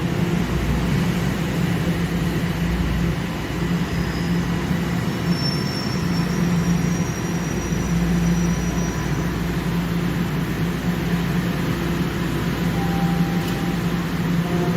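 TTC subway train running through the station, a steady low rumble and hum with a faint thin high whine that rises slightly in the middle.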